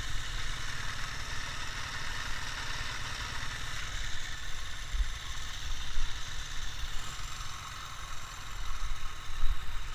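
Ural motorcycle's flat-twin engine running steadily, with a choppy low rumble underneath.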